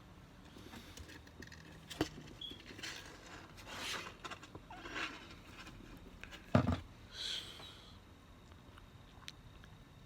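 Scratchy rustling strokes of a toothbrush being brushed through a kitten's fur, a few strokes spaced about a second apart, with a sharp click about two seconds in and a louder thump past the middle.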